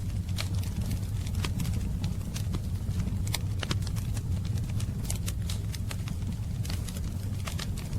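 Wood fire crackling: many sharp, irregular pops and snaps over a steady low rumble of the flames.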